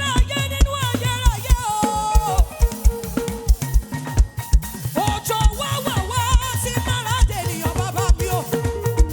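Live praise-band music: a drum kit keeps a fast, steady beat, with bass-drum strokes about three a second, under a wavering melodic lead line.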